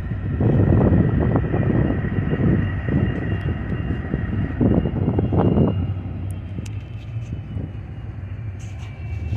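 Diesel freight locomotives running as the train backs into the yard: a steady low engine hum with a faint high whine over it. Uneven low rumbling is heavy for the first six seconds, then eases, and a few sharp clicks come near the end.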